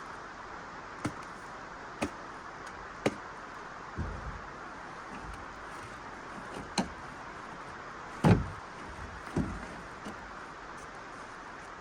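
A series of knocks and thuds, the loudest and deepest about eight seconds in, over a steady hiss: gear being handled at a pickup truck, with doors opening and shutting.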